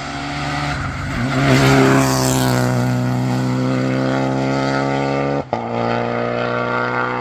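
Modern rally car engine at full throttle as the car passes, loudest about two seconds in, revs climbing steadily, then one quick upshift about five and a half seconds in before it pulls on at high revs.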